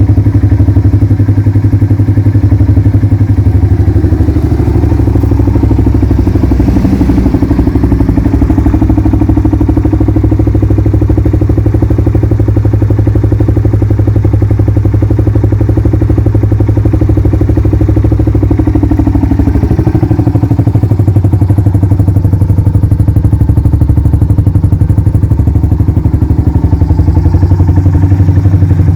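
Suzuki Savage single-cylinder engine running through a Supertrapp aftermarket exhaust, with a steady, rapid thumping exhaust note. The pitch shifts briefly about twenty seconds in.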